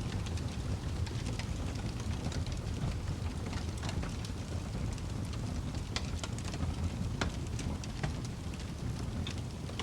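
Wood fire crackling in a fireplace: a steady low rumble and hiss of burning with irregular sharp pops and snaps, a few louder ones in the second half.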